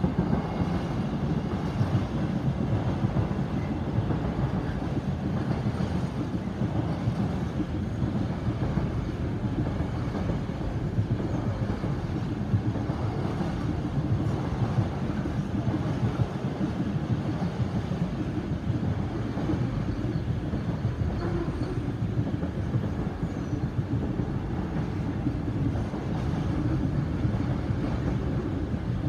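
Container freight train wagons rolling past over a level crossing: a steady, mostly low rumble of wheels on the rails that runs on unbroken.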